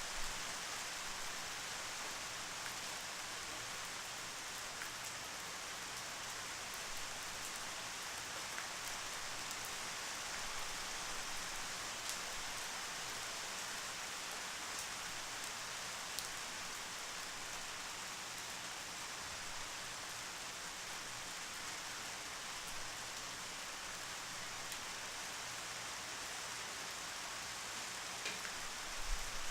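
Steady rain falling, an even hiss with scattered drops ticking on a surface. A few low thuds near the end.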